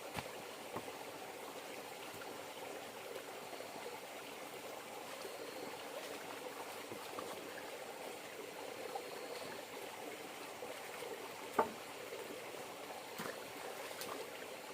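River water flowing and trickling steadily, with a few light clicks and one sharper knock about two-thirds of the way through.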